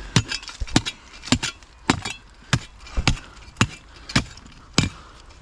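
A spade chopping repeatedly into hard ground: about nine sharp strikes, a little over half a second apart, digging at buried junk in a dump hole.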